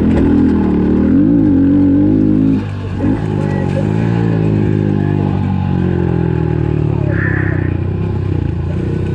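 Small single-cylinder pit bike engine running and revving up and down, its pitch rising and falling several times, easing off briefly about two and a half seconds in.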